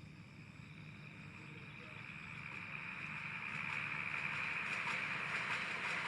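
Small electric motor of a toy model train whirring, growing steadily louder over several seconds, with faint light clicking appearing about halfway through.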